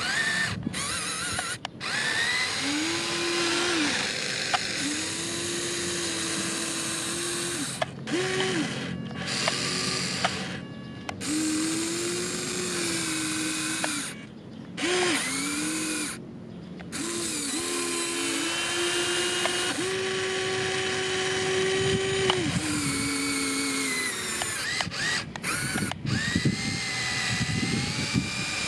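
A machine's whining motor running at changing speeds, its pitch stepping up and down. The sound cuts out abruptly several times.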